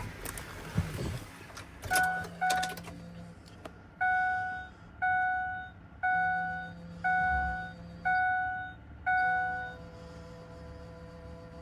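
Ford Excursion's dashboard warning chime: two quick short beeps, then six longer chimes at about one per second, each fading away.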